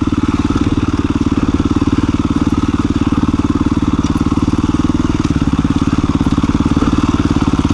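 2017 KTM 350 EXC-F single-cylinder four-stroke dirt bike engine running at low, steady revs, an even fast pulsing note with no revving.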